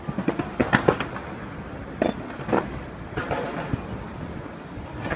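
Aerial fireworks bursting: a quick cluster of sharp bangs in the first second, single bangs about two and two and a half seconds in, and another short cluster after three seconds, over a continuous low rumble.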